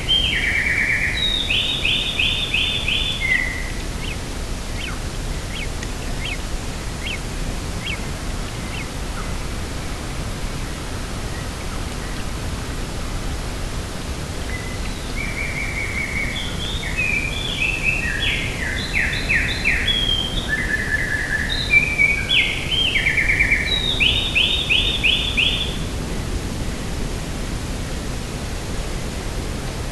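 A small songbird singing over a steady rush of outdoor noise. One burst of quick trilled notes comes near the start, and a longer, busier run of chirps and trills comes about halfway through.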